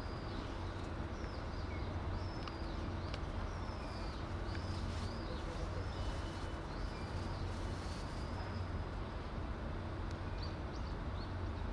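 Birds chirping again and again in short, curved high calls over a steady low rumble.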